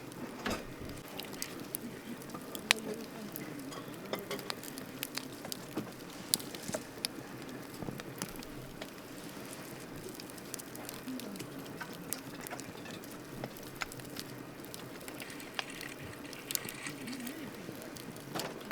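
Wood campfire crackling, with irregular sharp pops over a low steady hiss. A louder pop comes about three seconds in and another about six seconds in.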